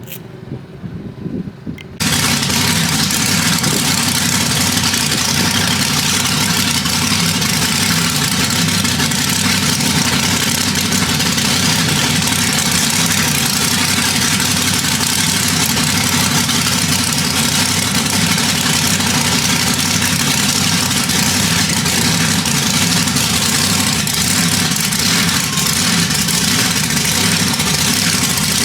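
A large engine running loud and steady, cutting in abruptly about two seconds in.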